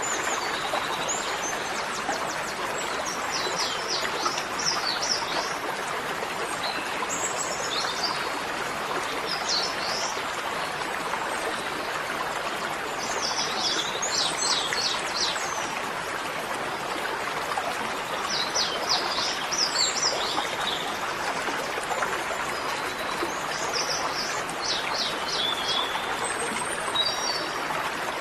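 A songbird singing short, high, stuttering phrases about every five seconds over a steady rushing background noise, like running water.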